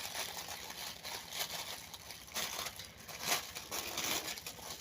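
Toy packaging rustling and crinkling in uneven bursts as it is handled and opened, with the loudest crackle about three seconds in.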